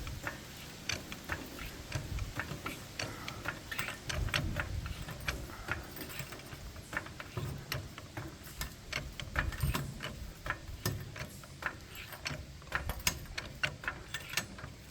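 Irregular metallic clicking and ticking, several clicks a second, with a few dull low thuds among them.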